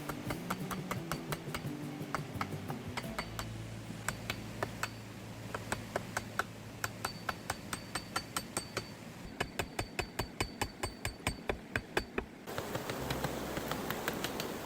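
Rapid, evenly spaced hard taps, about four or five a second, like a hammer driving a chisel, over soft background music. About twelve seconds in the tapping stops and a steady rushing noise takes over.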